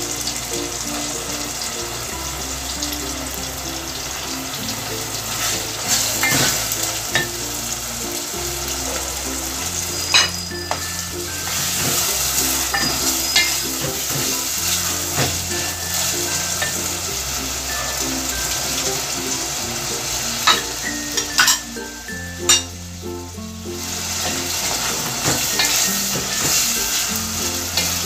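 Minced meat sizzling in hot oil as it fries in an aluminium pot, stirred with a spoon that now and then scrapes and knocks against the pot.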